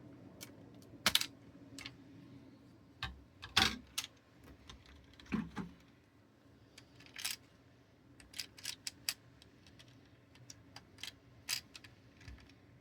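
Irregular clicks and taps of a plastic building-block toy car being handled, with the sharpest knocks about one, three and a half and five seconds in, over a faint steady hum.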